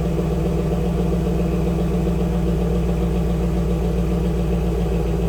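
2002 Pontiac Firebird Trans Am's 5.7-litre LS1 V8 idling steadily, still warming up after a cold start.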